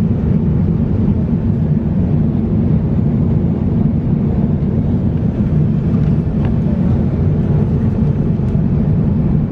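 Steady in-flight cabin noise of an Airbus A350-900: an even, low rumble of engines and airflow with no change in level.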